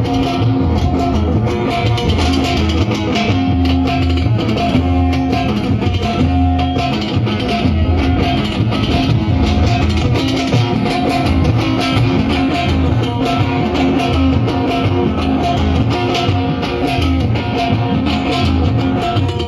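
Band music led by guitar, with bass and drums keeping a steady beat.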